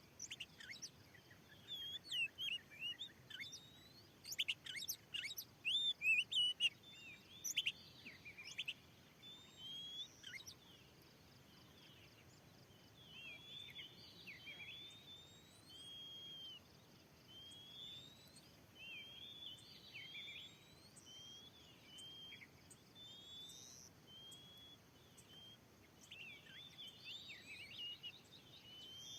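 Oriental magpie-robin (kacer) singing: a rapid run of varied whistles, sweeps and chirps, loudest in the first eight seconds and continuing in softer phrases after that.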